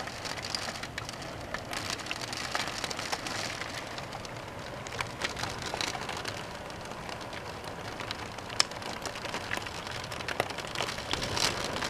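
Steady rain falling, with frequent sharp ticks of single drops striking.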